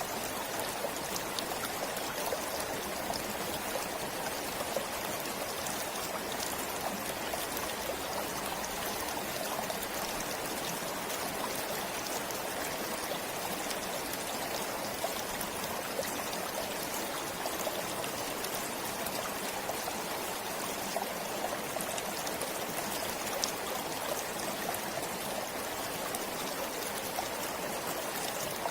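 A forest stream flowing steadily, with a constant rushing and small splashes and trickles.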